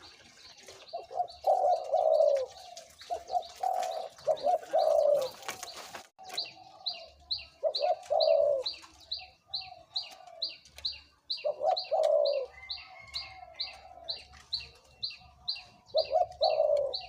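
Spotted dove cooing in short phrases repeated every few seconds, over a small bird's rapid high chirps at about three a second.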